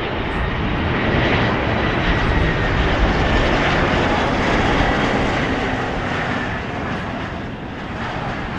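Airliner's engines as it passes close by: a rumble that swells to a peak in the middle and then eases off, with a high whine over it.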